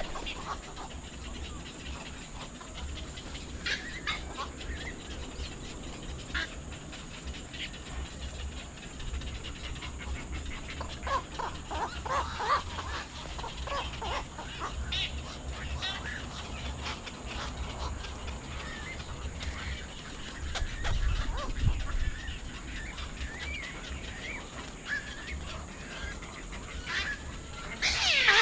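Scattered short bird calls and chirps, coming and going, with a cluster about a dozen seconds in and louder calls right at the end, over a steady high hiss and a low rumble.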